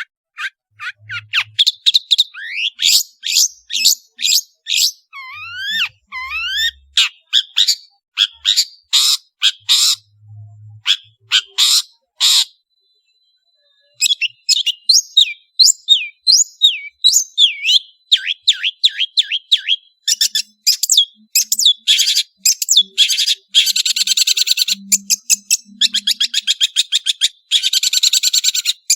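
Long-tailed shrike singing a rapid, varied song of sharp high notes and upward-sweeping whistles. It pauses briefly about halfway through, then breaks into fast, dense trills toward the end.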